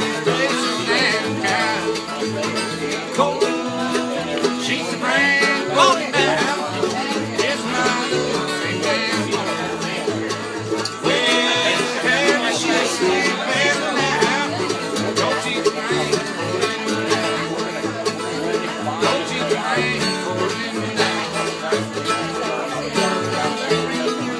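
Live band playing an instrumental break, with plucked strings over a steady, rhythmic bass line.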